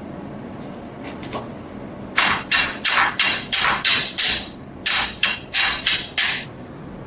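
Hammer striking metal in two quick runs: about seven sharp blows at roughly three a second, a short pause, then five more, each with a brief ring.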